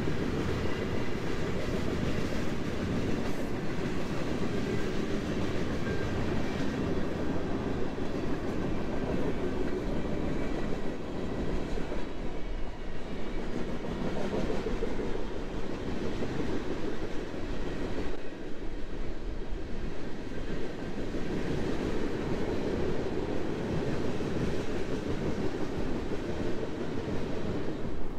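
Train passing on the BNSF main line: a steady rumble of wheels on rail.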